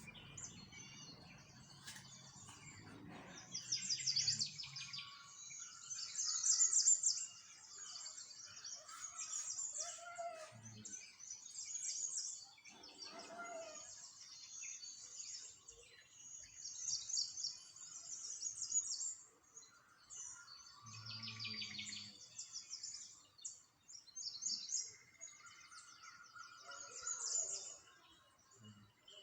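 Small songbirds chirping and twittering, quick high trills repeating one after another, with a few lower calls between them.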